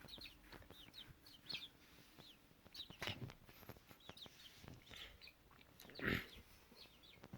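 Faint, high-pitched chirping of baby birds: many short peeps, each falling in pitch, in quick irregular succession, among light clicks and rustles of handling. A louder rustle comes about three seconds in and again about six seconds in.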